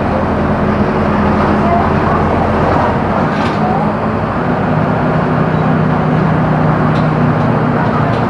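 Mercedes-Benz OF-1418 bus's six-cylinder diesel engine running under way, heard from inside the bus, with the engine note dropping to a lower steady pitch about three seconds in.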